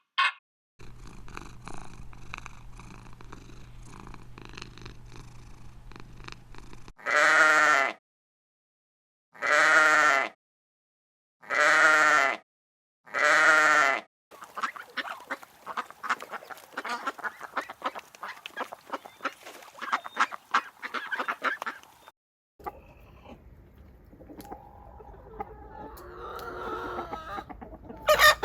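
A farm animal calling loudly four times, each call about a second long, after several seconds of low hum; then a stretch of crackling and rustling, and fainter animal calls over background noise near the end.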